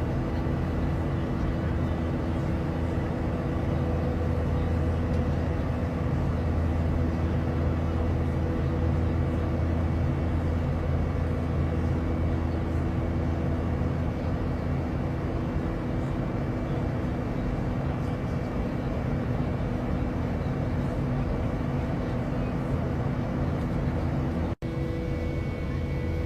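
Airliner cabin noise: a steady drone of engines and airflow with a few steady hum tones, broken by a momentary cut near the end.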